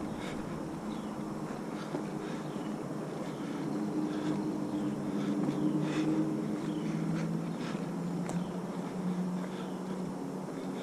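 Footsteps on a park trail, with a steady low hum underneath and faint high chirps.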